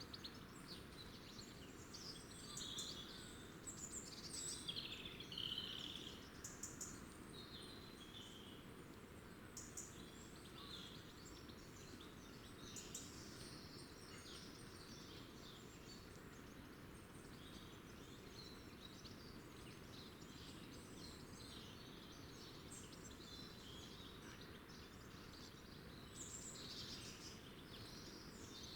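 Small birds chirping and twittering in short, scattered calls, busiest in the first few seconds and again near the end, over a faint steady background hiss.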